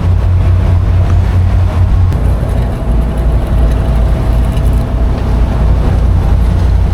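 Boat engine running steadily underway, a loud low drone with a faint higher hum over it.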